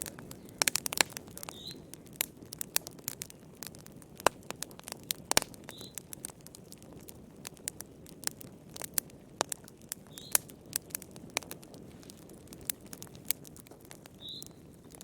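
Wood fire crackling in a fireplace: irregular sharp pops and snaps over a low steady rush of burning flames.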